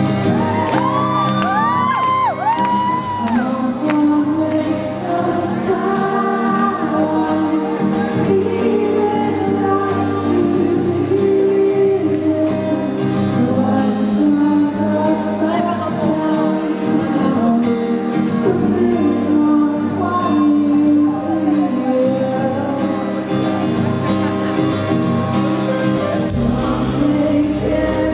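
Live rock band performing with a male lead singer and a crowd; a few high whoops rise and fall in the first few seconds.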